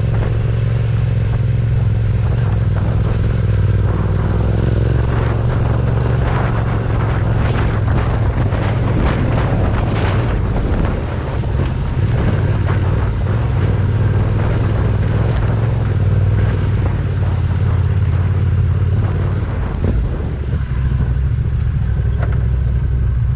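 Yamaha Ténéré 700's parallel-twin engine running at steady low revs on a rough rocky track. A run of crunching and clattering clicks, like tyres on loose stones, comes a few seconds in.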